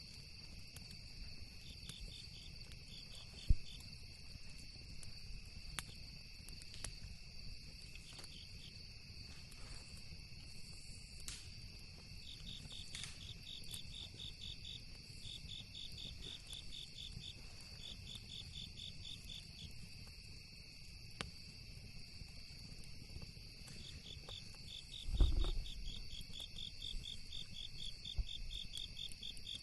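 Insects chirping steadily, with repeated runs of fast pulsed chirps, over a low rumble. A few sharp crackles from the campfire and a dull thump near the end.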